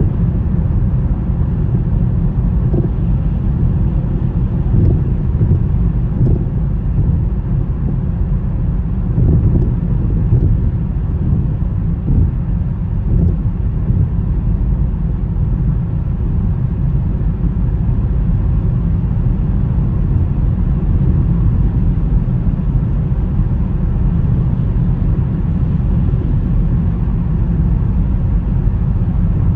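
Steady low rumble of a car being driven on a snowy road, with road and engine noise and no sharp events.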